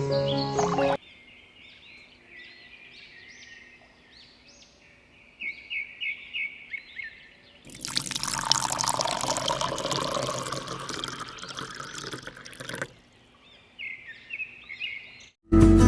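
Water pouring steadily for about five seconds, starting and stopping abruptly. Before and after it come small birds chirping in short repeated notes.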